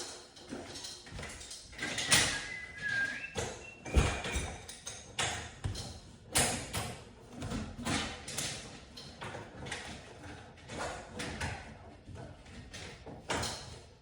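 Irregular metal knocks, clanks and rattles of hand work on garage door hardware during a spring replacement, with a brief squeak about two seconds in.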